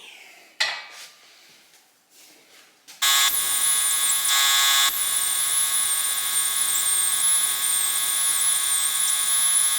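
Die grinder running against a steel swing-arm bolt, grinding out nicks and cuts, with a steady high whine. It starts about three seconds in and eases briefly about a second later.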